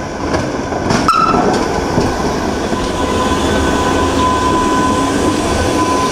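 Gornergrat Railway three-phase electric rack train running along the track with a steady high whine over a rumble. A short clatter of clicks comes about a second in.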